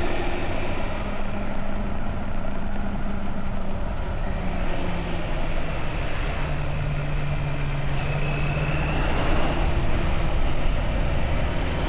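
Motorbike engine running under way, with heavy wind and road noise over it; the engine note steps lower about halfway through.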